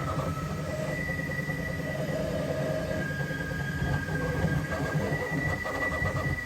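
Bambu Lab X1 Carbon 3D printer running a print: a steady mechanical rumble with high motor whines at a few pitches that come and go as the moves change.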